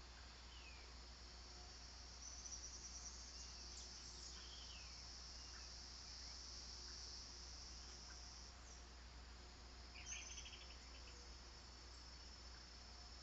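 Faint, steady high-pitched chorus of insects such as crickets, with a few faint short bird chirps scattered through it and a brief rapid pulsed call about ten seconds in.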